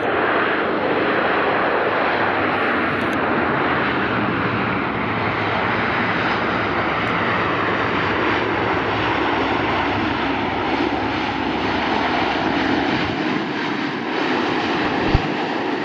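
Jet engines of an Air Canada Airbus A330-300 (Rolls-Royce Trent 700s) as a steady loud rush of noise, with a faint tone sliding lower in the second half as the airliner passes. A short low thump comes near the end.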